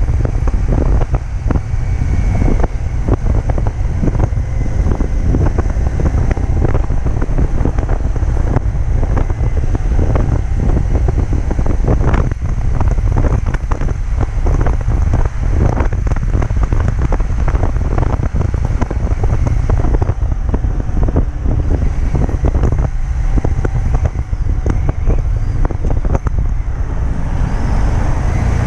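Wind rushing and buffeting hard on the microphone of a Harley-Davidson XG750 motorcycle ridden at expressway speed, with the engine running underneath.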